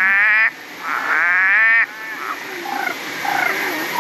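Frogs calling: two long, loud calls in the first two seconds, each lasting over half a second, then a run of shorter, fainter calls.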